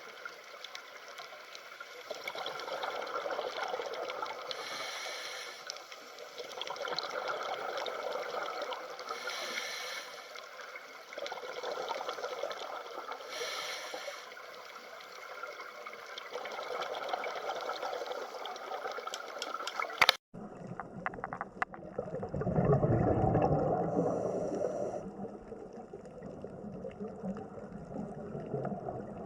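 Running water trickling and gurgling, swelling and easing every few seconds. About two-thirds through it cuts abruptly to another stretch of water-like noise, with a louder low rush shortly after the cut.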